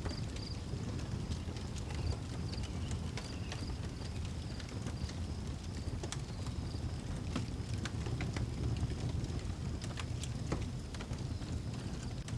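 Wood fire burning in an outdoor fireplace: a steady low rush of flame with irregular sharp crackles and pops. Crickets chirp faintly in the background.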